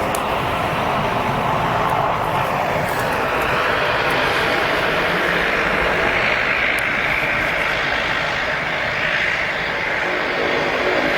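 Airliner's engines running with a continuous noise, a higher whine rising in pitch a few seconds in.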